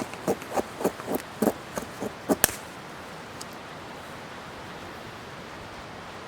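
Knife carving shavings from damp wood: quick scraping strokes about three a second, stopping about two and a half seconds in, then a steady hiss.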